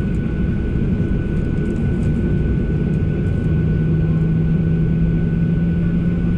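Boeing 737 jet engines and airflow heard inside the cabin: a steady, loud rumble with a thin high whine, and an engine tone that rises slightly about three seconds in and then holds.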